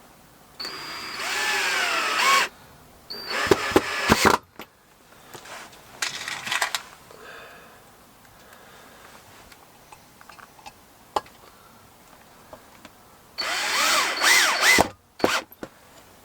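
Power drill driving screws to fix a wooden shelf's brackets to the wall: four short runs of motor whine, the pitch sagging as each screw bites and rising again, with a few sharp clicks and knocks in between.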